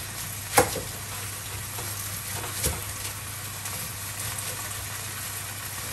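Pork liver slices sizzling steadily in oil in a pan, with a few sharp knife knocks on a cutting board as an onion is cut into rings, the loudest about half a second in and another near the three-second mark.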